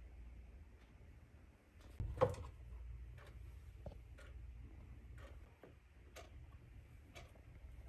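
Clock ticking faintly, about one tick a second, with a single louder knock about two seconds in.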